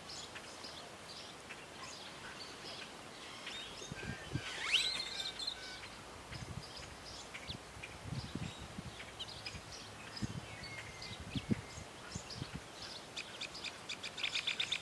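Small birds chirping off and on, with one louder gliding call about a third of the way in and a rapid trill near the end, over a steady outdoor background. A few soft low thumps come in the middle.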